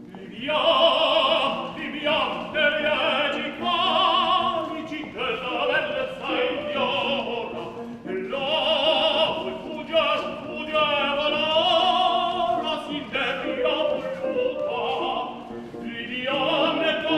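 Operatic singing: a trained voice with wide vibrato in long phrases with brief breaks, over instrumental accompaniment.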